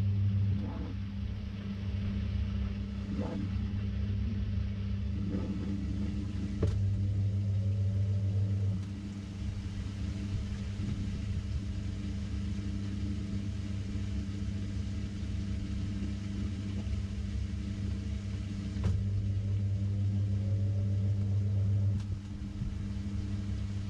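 Samsung 6.5 kg top-load washing machine running, heard from inside the drum: a steady low motor hum that swells for a couple of seconds at a time, three times, with a few short knocks.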